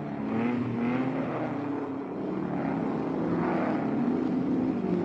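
Racing GT cars' engines running at speed on a circuit, their pitch rising and falling as the cars pass and shift.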